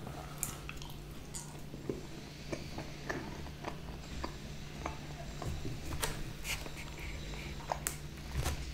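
Close-miked chewing of pizza: small wet mouth clicks and soft crunches, scattered and irregular, over a faint steady low hum.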